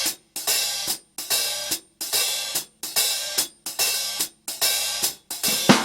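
A song's intro: cymbals struck in a steady beat, about one hit every 0.8 seconds, each one cut off short before the next.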